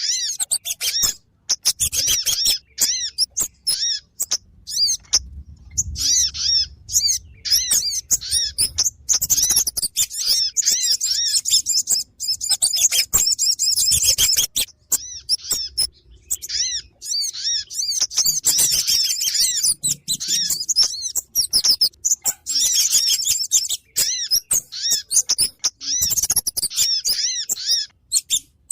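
Lure recording of kemade and sogon bird calls used to attract these birds for trapping: rapid, high-pitched chirping and twittering in dense bursts with brief pauses between them.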